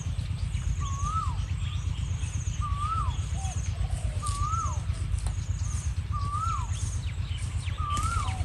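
Spotted dove cooing, the same short phrase repeated evenly about once every second and a half, six times. Under it a steady low rumble, and faint high chirps in short runs.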